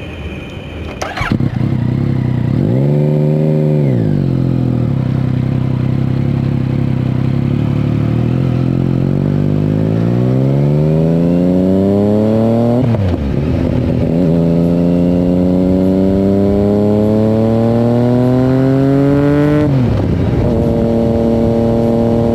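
Yamaha MT-09's three-cylinder engine through an Akrapovic exhaust. After a sharp crack about a second in, it idles and gives one quick rev blip. It then pulls in two long, steadily rising runs of pitch, each ending in a sudden drop as it shifts up, and finally holds a steady pitch.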